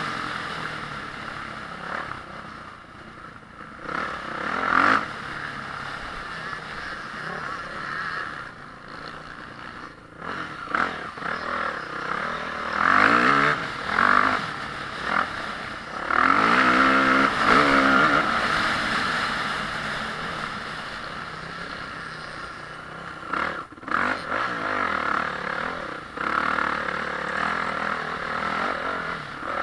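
Motocross bike engine revving hard and easing off over and over as the throttle opens and closes, its pitch climbing and dropping through the gears, with the loudest surges around the middle of the clip.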